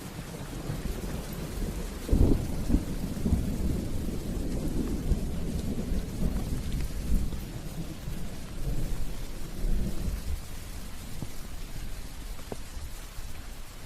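Steady rain with a thunderclap about two seconds in. The thunder rolls on in a low rumble for several seconds and dies away near the end.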